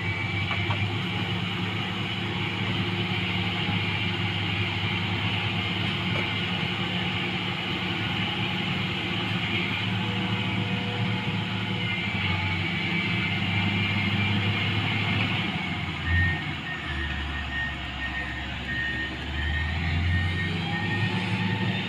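Heavy road-works vehicle engine running steadily, with a reversing alarm beeping repeatedly in the later part.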